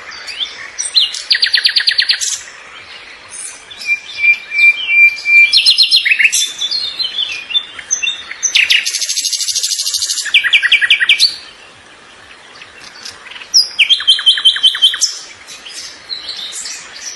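Songbird singing in fast trilled phrases of rapidly repeated high notes, separated by short pauses, with a brief steady whistled note about four seconds in.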